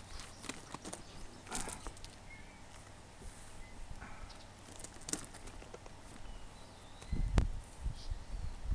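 Footsteps and rustling on the ground, with scattered small clicks and one heavier thump about seven and a half seconds in.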